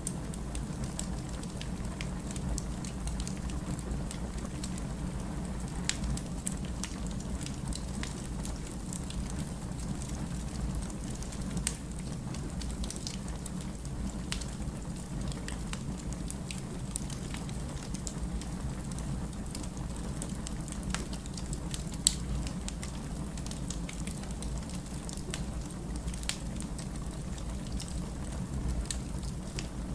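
Firewood burning in a fireplace: a steady low rumble with scattered crackles and pops, and one sharper pop about three quarters of the way through.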